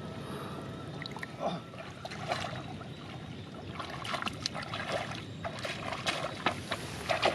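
Shallow water sloshing and splashing as it is worked by hand, with quick small splashes and trickles that grow busier about halfway through.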